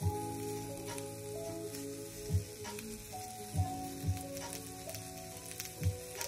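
Food sizzling in a miniature frying pan, a steady hiss scattered with small pops.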